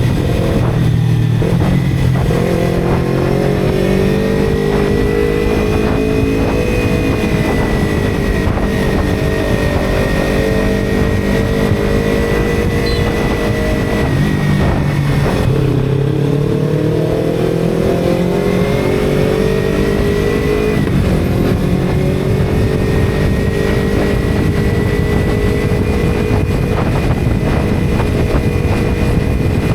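Motorcycle engine running under way, its pitch climbing and then dropping at gear changes about two seconds in, around fifteen seconds and around twenty-one seconds, over steady wind rush. A thin high whine runs along with it.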